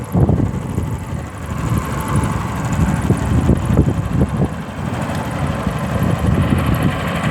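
A ferry's engine running steadily during a lake crossing.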